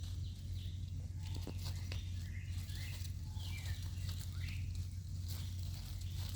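A few short, high chirping calls in the middle, sliding up and down in pitch, over a steady low hum and scattered light clicks and rustles of movement on the ground.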